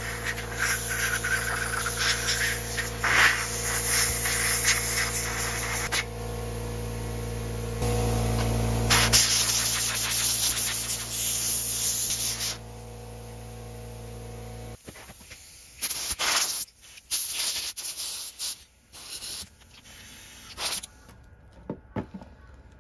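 Hissing spray over a steady mechanical hum; the hum stops abruptly about fifteen seconds in, leaving scattered clicks and knocks.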